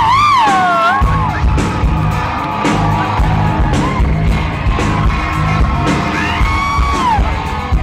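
Live rock band playing a steady beat, with bending, sliding high pitched lines over it and whooping from a concert crowd.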